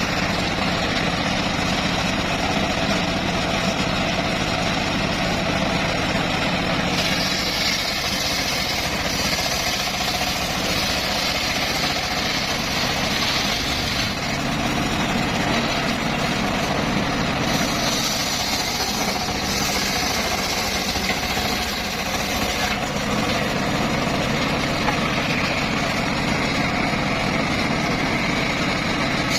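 Engine driving a homemade circular sawmill running steadily, with two stretches of added high hiss, from about seven seconds and again from about seventeen, as the blade cuts through teak.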